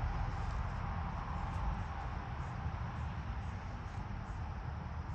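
Steady low rumble and hiss of outdoor background noise, with faint high ticks about once a second.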